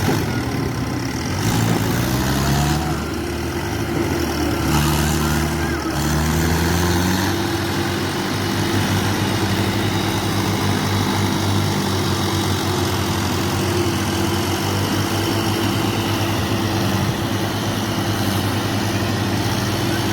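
Diesel tractor engine revving up and falling back several times in the first few seconds, then running steadily at a constant speed.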